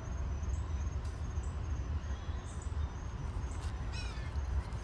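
Evening outdoor ambience: insects trilling in a steady high tone with short repeated pulses, over a steady low rumble. About four seconds in, a bird gives a quick run of falling chirps.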